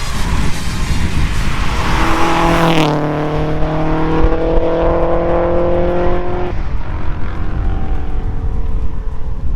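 Subaru Impreza WRX flat-four engine pulling under acceleration over a low road rumble. The engine note drops a little under three seconds in, as at a gear change, climbs slowly, and cuts off about six and a half seconds in. A rushing hiss fills the first three seconds and stops abruptly.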